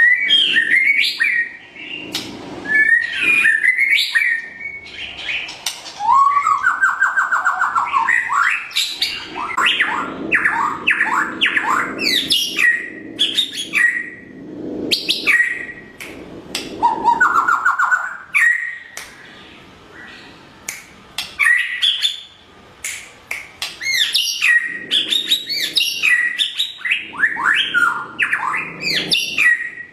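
White-rumped shama (murai batu) singing a long, varied song of whistles, rapid trills and sharp clicks, with a brief pause near the middle.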